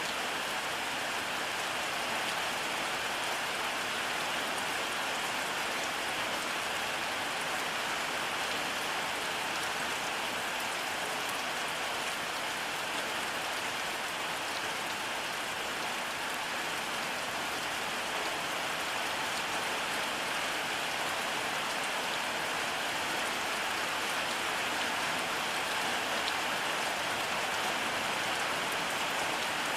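Steady rainfall, an even hiss of drops falling on a surface, with no thunder.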